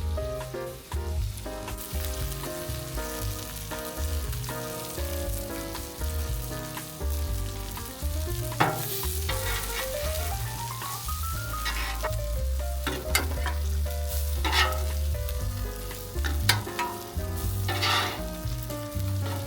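Food sizzling on a Blackstone flat-top griddle, with a spatula scraping across the griddle several times. Background music with a steady bass line plays throughout.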